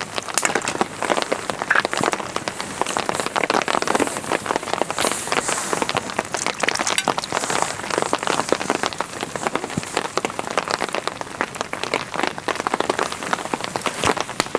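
Heavy rain falling steadily, with many individual drops striking close to the microphone in dense sharp ticks.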